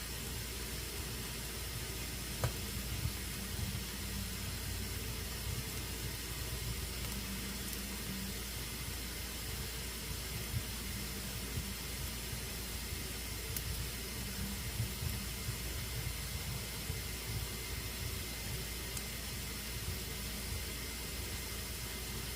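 Fire burning in a fireplace: a steady hiss with a few faint, scattered pops.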